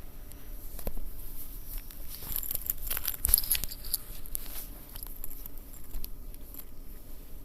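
Light rustling with scattered small clicks close by, busiest around the middle.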